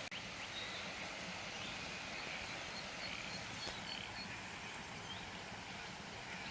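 Outdoor bush ambience: a steady background hiss with faint, short bird chirps scattered throughout, and a brief click just after the start.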